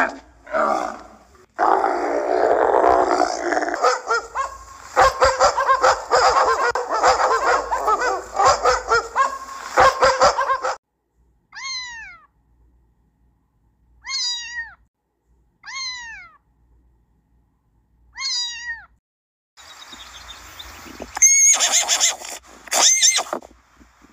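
A string of short animal recordings. First comes about ten seconds of loud, busy sound full of clicks. Then a kitten meows five times, each a short falling cry about two seconds apart, followed by a noisy stretch with a few loud sharp sounds near the end.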